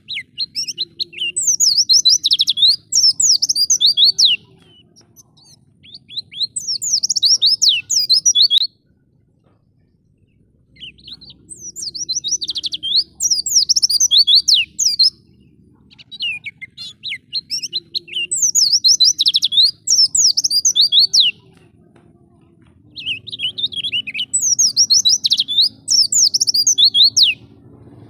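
A white-eye (pleci) sings in five bouts of rapid, high twittering, each lasting three to four seconds, with short pauses between them.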